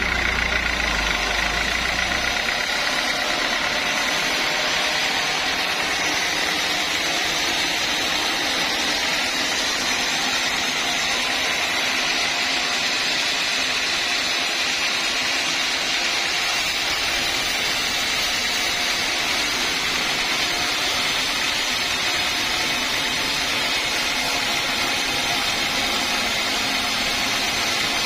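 Sawmill machinery running steadily, an even high hiss with faint steady tones; a low rumble drops away about two seconds in.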